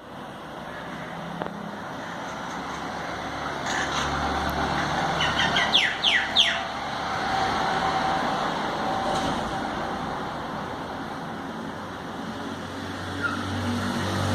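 Common mynas calling, a short run of quick, repeated high notes about five to six seconds in, over steady traffic-like background noise.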